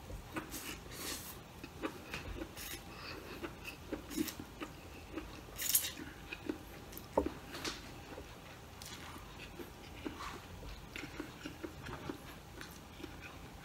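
Close-up mouth sounds of a person eating a glass-noodle salad by hand: chewing with irregular wet smacks and clicks, busiest in the first half.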